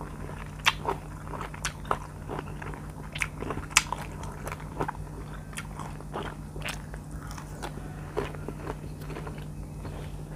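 Close-miked biting and chewing of firm mango slices, with sharp crunches, the loudest about a second in and near four seconds.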